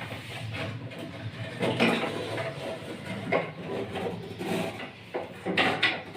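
Flush tank float-valve parts being handled as the float ball's rod is worked loose: irregular scraping, rubbing and clicks of plastic and metal parts.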